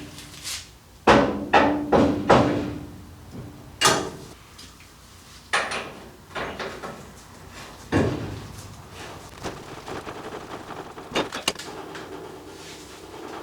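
A series of sharp metal clunks and knocks from wheel parts and tools being handled while a wheel is fitted onto its axle: several in quick succession, then single knocks spread out, some with a short ring.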